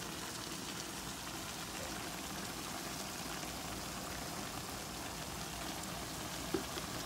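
Eggplant and minced chicken adobo sizzling steadily in a pan on the stove, with one short tap about six and a half seconds in.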